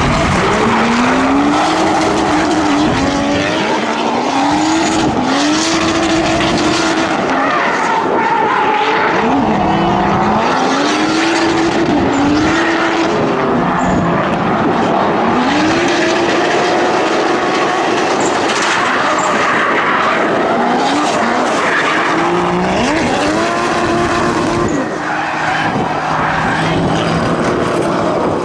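Drift cars running a tandem battle on track: engines repeatedly revving up, holding high revs and dropping off, over a steady hiss of tires squealing as they slide.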